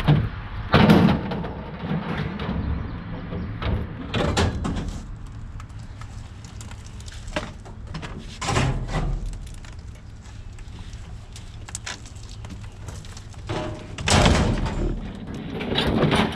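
Scattered knocks, clunks and rattles of scrap being handled and moved, with several louder bangs spread through and a cluster near the end.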